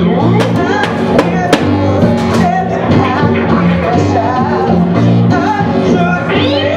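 Live rock band playing: bass, guitar and drums, with a voice singing.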